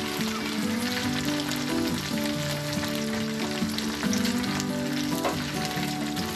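Batter-coated prawns deep-frying in hot oil in an iron kadai, sizzling steadily with small crackles and pops from the moisture and oil in the prawns, as a slotted spoon stirs them. Background music plays underneath.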